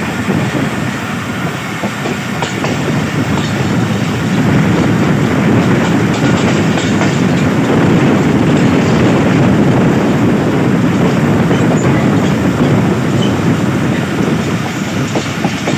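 Passenger train coaches running along the track, a steady rumble and clatter of wheels on rails heard from an open coach doorway. It grows a little louder about four seconds in.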